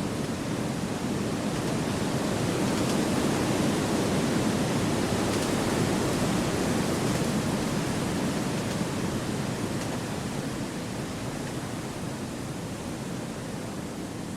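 Gentle wind rushing through forest trees, a smooth even noise that swells over the first few seconds and then slowly eases off.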